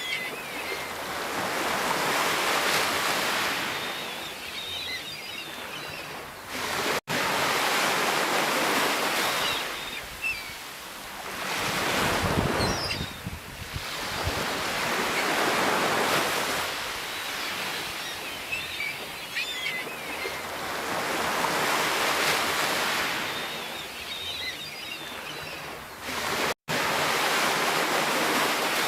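Ocean surf: waves breaking and washing in, swelling and fading every few seconds. There are two very short gaps of silence, about a quarter of the way in and near the end.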